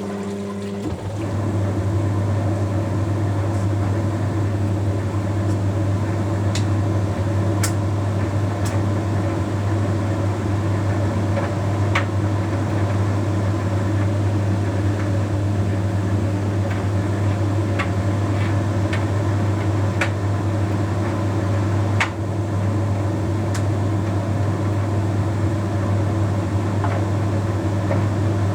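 Bosch Series 6 heat pump tumble dryer running late in its Shirts cycle: a steady hum from the drum motor and heat pump compressor, with a few scattered light clicks. A second, higher tone stops about a second in, after the self-cleaning condenser's water pump has been running.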